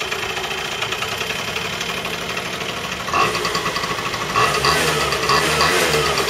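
Kymco 50cc scooter engine running just after a cold kick-start. It idles steadily, picks up and gets louder about three seconds in, then its pitch rises and falls with short throttle blips near the end.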